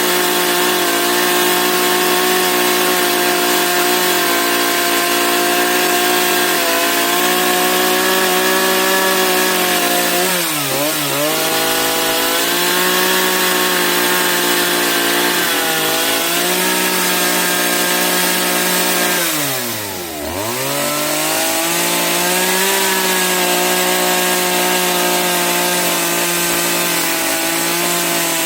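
Chainsaw running at high speed while cutting wood, its engine note dipping sharply under load twice, about ten seconds in and again about twenty seconds in, then picking back up.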